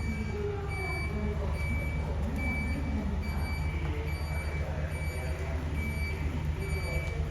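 Isuzu Forward truck's diesel engine idling steadily through a split exhaust manifold (mani-wari) and a single muffler, a deep even rumble. A high electronic beep repeats about once a second over it.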